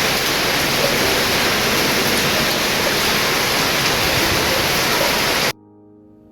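Heavy rain pouring as a steady, dense hiss, with faint music underneath; the rain cuts off abruptly about five and a half seconds in.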